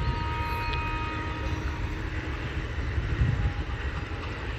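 Sri Lanka Railways Class S11 diesel multiple unit passing close by, its power car's engine rumble giving way to the coaches' wheels running over the rails. A thin high whine fades out after about a second and a half, and a few wheel knocks come about three seconds in.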